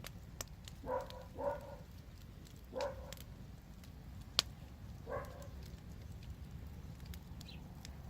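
Wood fire crackling, with scattered sharp pops and snaps over a steady low rumble; the loudest pop comes a little past the middle. Four short pitched sounds are heard, about 1, 1.5, 3 and 5 seconds in.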